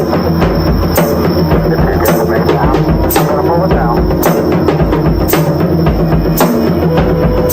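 Drum solo: busy drumming with a sharp accent about once a second over a steady low hum.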